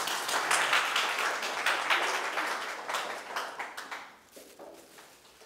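Audience applauding after the speaker is introduced, dense clapping that dies away about four seconds in.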